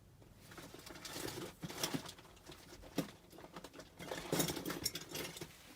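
Irregular rustling, scraping and light knocks of hand tools being handled at a furnace's black iron gas pipe fittings, with a couple of sharper ticks in the middle.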